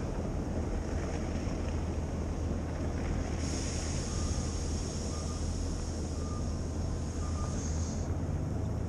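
City street traffic: a steady low rumble of vehicles, with a hiss that rises about three seconds in and drops away near the end. Four faint short beeps come about a second apart in the middle.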